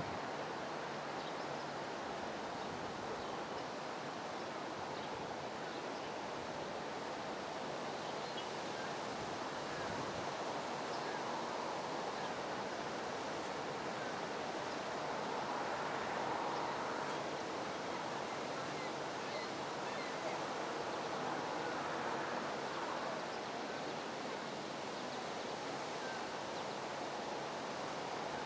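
Steady rushing and churning of water as the canal lock chamber fills to raise the ship, a constant even noise that swells slightly around the middle.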